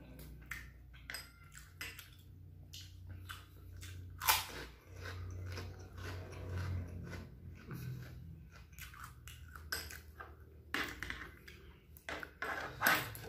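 Close-miked chewing of fried noodles, with wet mouth clicks and smacks. Two louder sharp sounds stand out, about four seconds in and near the end.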